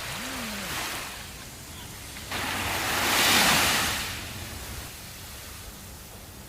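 Sea waves washing onto a sandy beach: one wave breaks with a sudden hiss a little over two seconds in, swells to its loudest about a second later and fades away, over a steady low rumble of surf.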